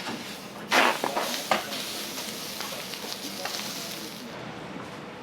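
Food hitting a hot iron griddle with a sudden loud sizzle about a second in. The sizzling carries on, with a few sharp clicks of metal spatulas on the plate.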